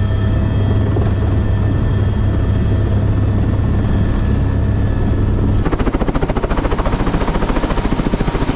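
Helicopter running: a steady engine hum with a few steady whining tones, then a little more than halfway through the sound changes abruptly to a rapid, even beating of the rotor blades.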